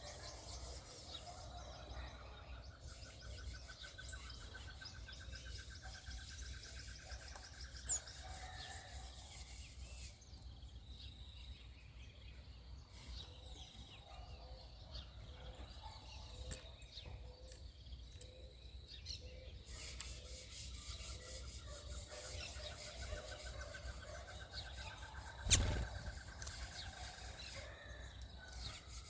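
Backyard birds calling: a long pulsing trill that rises a little in pitch comes twice, with scattered short high chirps between. Two sharp knocks stand out, one about eight seconds in and a louder one near the end.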